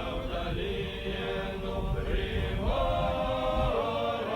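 Choir singing long held notes, without clear words, moving from chord to chord.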